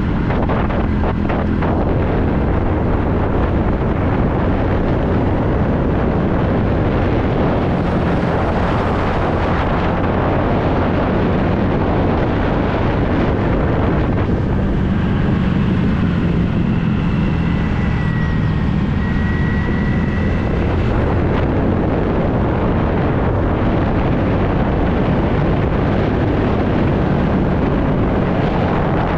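Wind buffeting the microphone over a TVS Ntorq scooter's engine, running steadily on the move, with a faint high-pitched tone for a few seconds midway.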